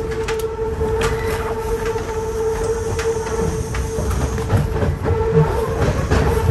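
Kintetsu express electric train running, heard from inside the leading car: a steady whine holding one pitch over a low rumble, with scattered sharp clicks of the wheels over rail joints and points.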